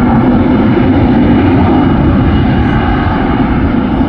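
Airliner engines running loud and steady at close range: a heavy low noise with a faint, thin whine above it.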